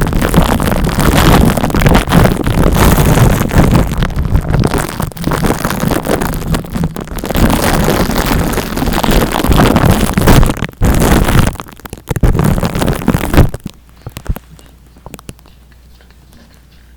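Hands rubbing and scratching right on a sensitive ASMR microphone, as in a mic scalp massage: a loud, dense, crackling rustle that stops abruptly about three-quarters of the way through, leaving only faint soft clicks.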